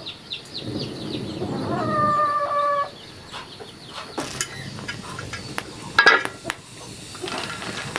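Chickens clucking, with one held call of about a second starting about two seconds in, and a few sharp knocks later on.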